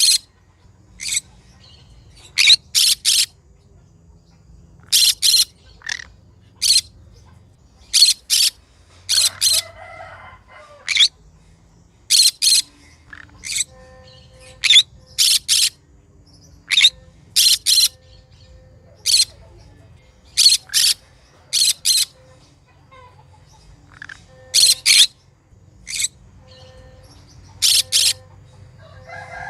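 Green conure giving short, sharp, high chirps, mostly in quick pairs or threes, repeating every second or two.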